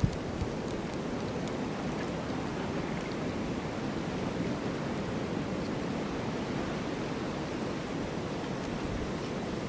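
Steady rushing wind of a snowstorm, a dense, even noise that holds level throughout, with a short knock right at the start.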